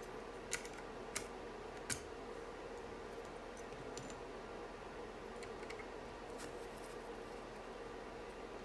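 Small hard parts of a 40% mechanical keyboard being handled during assembly: three sharp clicks in the first two seconds, then faint scattered ticks, over a steady hum.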